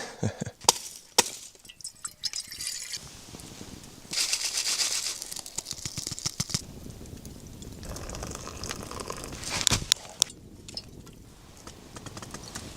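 Camp gear being handled, with scattered clicks and knocks and two stretches of hissing noise, the first about four seconds in, sounding like water being poured.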